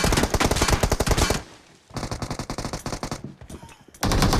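Rapid automatic gunfire from a video-game shooter, in bursts. A loud burst stops about a second and a half in, a quieter one follows, and another loud burst starts near the end.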